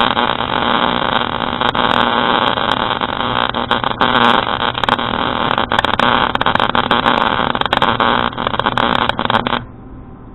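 Wire-feed welder arc crackling and sputtering steadily during a weld, then cutting off abruptly about nine and a half seconds in as the trigger is released.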